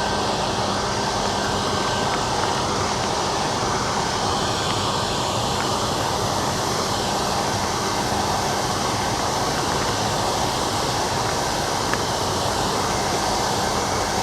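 Combine harvester running at work: a steady, even mechanical noise with a low hum underneath, unchanging throughout.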